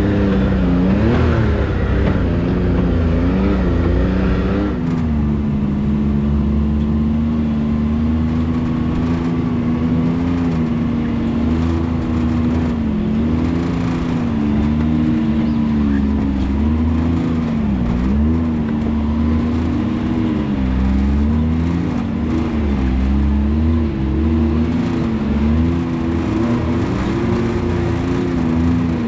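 Can-Am Maverick X3's turbocharged three-cylinder engine pulling at low speed, its pitch rising and falling with the throttle as the machine crawls over rough, rocky ground. It revs higher for the first four or five seconds, then settles to lower, uneven revs.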